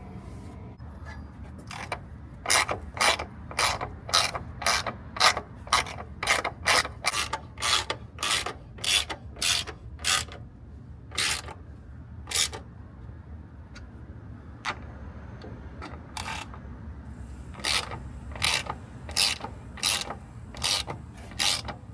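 Hand ratchet wrench turning engine-mount bracket bolts, its pawl rattling on each back-swing about twice a second. It goes in two runs with a pause of a few seconds between them.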